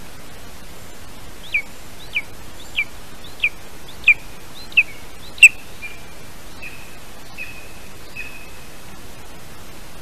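A bird calling: a series of seven short, sharp notes, each sliding downward and each louder than the last, then a few flat, drawn-out notes. A steady hiss runs underneath.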